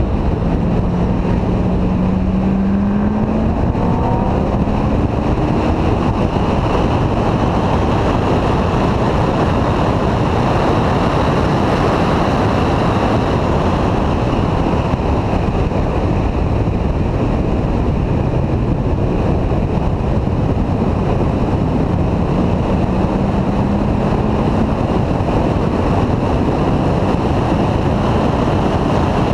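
C6 Corvette's V8 engine running hard on track under acceleration, with heavy wind noise on the hood-mounted microphone. The engine pitch rises during the first few seconds out of a corner and rises again about three-quarters of the way through.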